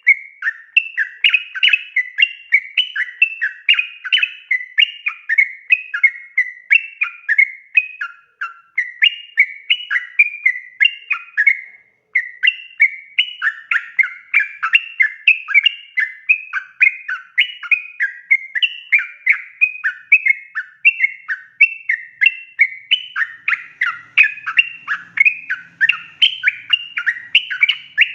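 Yellow-vented bulbul (trucukan) singing a long, fast, unbroken run of bubbling chattering notes, about four to five a second, with brief pauses about eight and twelve seconds in.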